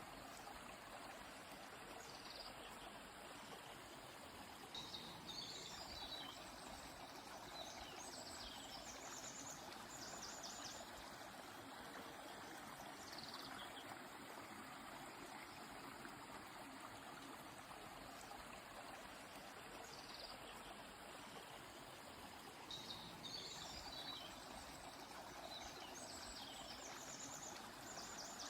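Faint, steady rush of a flowing river, with a bird singing short high phrases and quick trills over it every few seconds.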